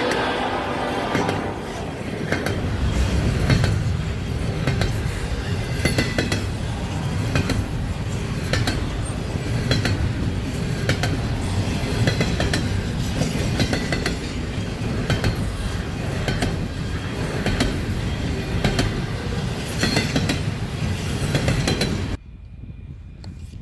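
Intermodal freight train rolling past: a steady rumble of the cars with repeated wheel clicks and metallic clanks over the rail joints. Near the end the sound drops off suddenly.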